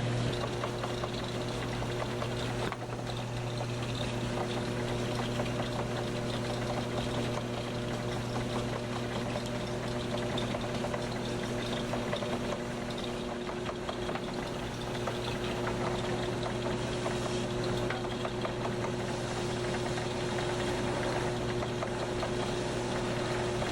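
Shoe-repair shop machinery running steadily: an electric motor hum with a noisy whir over it.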